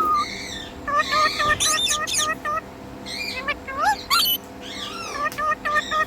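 Pet parrot calling: quick runs of short pitched chirps at about five a second, broken by a few rising whistles and harsh high squawks.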